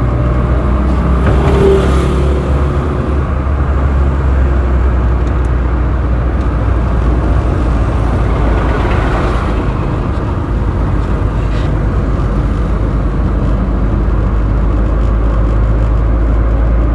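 Road traffic heard from a moving vehicle: a steady low engine and road rumble, with passing vehicles swelling around two seconds in and again around nine seconds.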